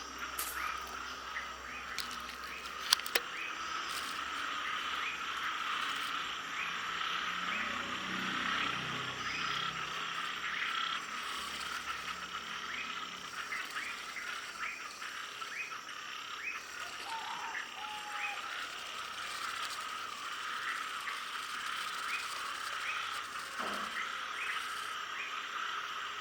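A dense chorus of frogs calling, with many short calls repeating over a steady background din. Two sharp clicks come about three seconds in.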